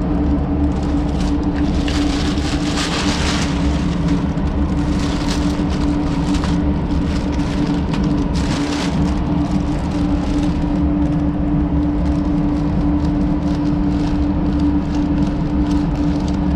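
Steady drone of a ventilation fan with a strong constant hum, overlaid a few times by short rustling tears of masking tape and paper being pulled off the freshly painted panel.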